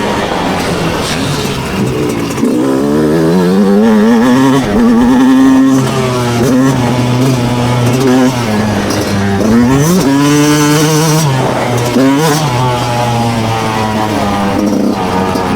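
Two-stroke motocross bike engines revving hard and easing off, their pitch climbing and falling again and again, with more than one bike heard at once in places.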